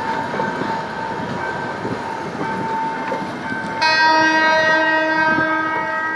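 Commuter train pulling away along the rails, with a steady high tone over the running noise. About four seconds in, a train horn starts a long, steady blast that lasts to the end.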